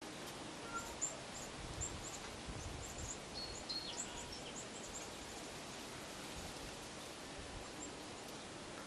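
Quiet outdoor ambience with small birds chirping in short, high notes scattered throughout, including a couple of held whistles that drop in pitch around the middle, over a soft steady hiss.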